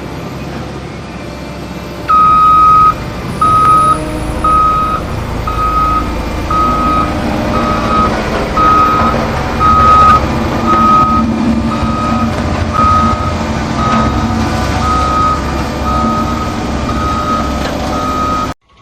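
Vehicle reversing alarm beeping about once a second in a single steady tone, over a low engine rumble; both cut off abruptly near the end.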